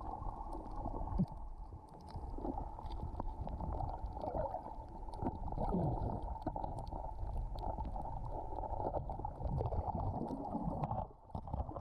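Muffled underwater noise as picked up by a diver's camera: a steady low rumble with a few gliding tones and faint scattered clicks.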